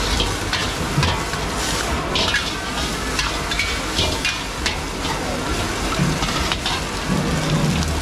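Food sizzling in hot oil or on a hot grill: a steady hiss with many small crackles and pops.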